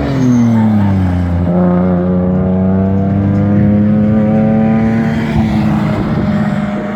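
Race car engine running hard on the circuit. Its note drops over the first second or so, then climbs slowly and holds fairly steady.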